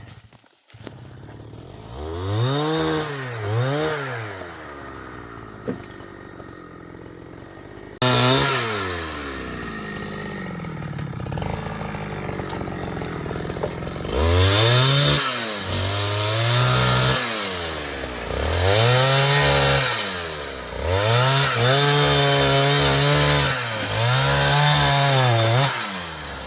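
Two-stroke chainsaw revving up and easing off again and again, held at full throttle for a second or two each time while cutting timber; it jumps louder about a third of the way through.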